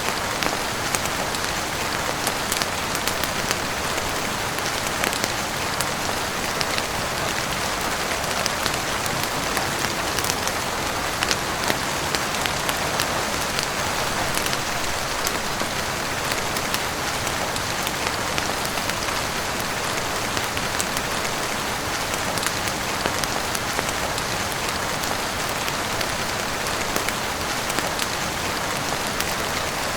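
Heavy rain falling steadily on a roof and windows, an even hiss dotted with scattered sharp clicks and crackles from a wood fire.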